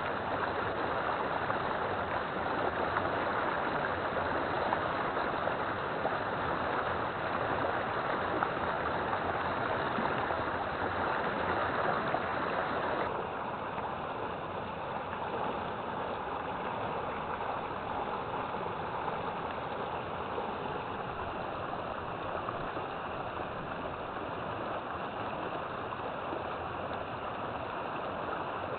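River water flowing in a steady rushing wash. A little under halfway through, the sound changes abruptly to a slightly quieter, duller flow.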